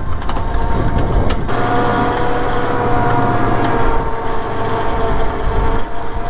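A vehicle or machine engine running steadily: a deep rumble with several steady whining tones over it, and a single sharp click about a second in.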